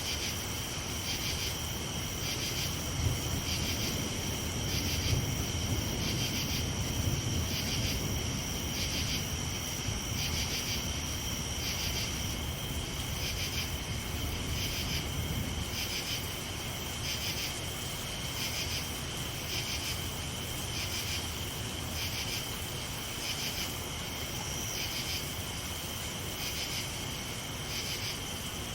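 A chorus of night insects calling in a steady, high-pitched trill that pulses about once a second, over a constant hiss of rain. A low rumble of distant thunder swells in the first half and fades out about halfway through.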